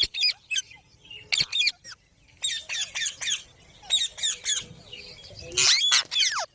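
Pet green parrots squawking: short, sharp, high calls in quick runs of a few at a time, with the loudest run near the end.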